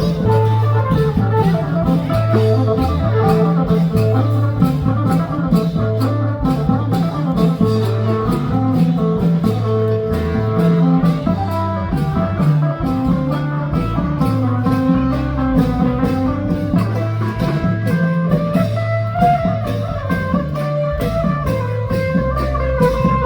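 Festive band music with a steady drum and cymbal beat, a heavy pulsing bass line and a plucked-string lead melody.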